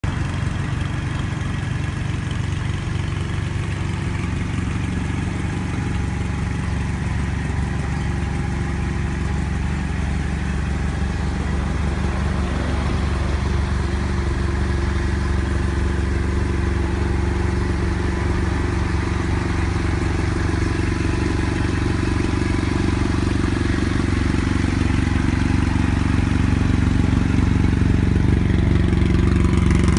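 BMW F 800 GS motorcycle's 798 cc parallel-twin engine idling steadily, with stock exhaust, slowly growing a little louder.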